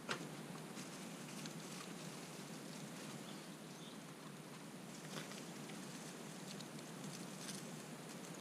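Wood campfire crackling, with scattered small pops and sharper pops right at the start and about five seconds in.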